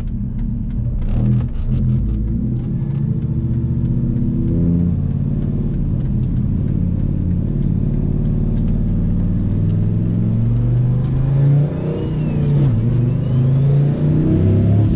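Turbocharged Dodge Ram SRT-10's V10 engine driving off and accelerating, heard from inside the cab, its note rising and falling with the revs. A fast light ticking runs through the first part, and near the end a high whine rises and then falls away.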